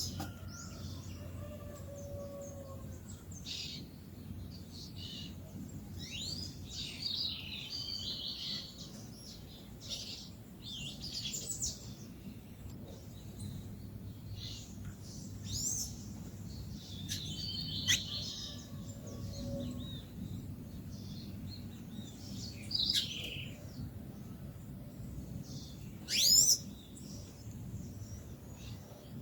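Several songbirds chirping and calling in short, high notes, one after another with brief gaps, and a louder call near the end.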